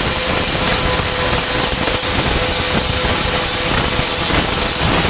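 Warrior 4-1/2 in. angle grinder with a Type 27 grinding disc grinding down flux-core weld beads on a steel tailgate patch: continuous harsh grinding noise with a steady tone under it.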